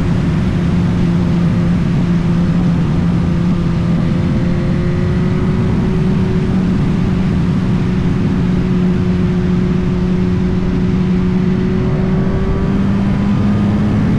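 Motorcycle engine running steadily at cruising speed, its pitch holding nearly level and rising slightly near the end.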